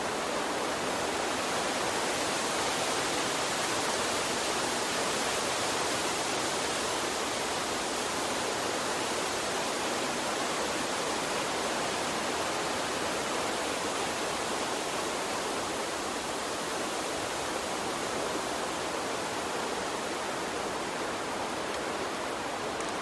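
Water stream flowing, a steady, even rushing hiss with no breaks or changes.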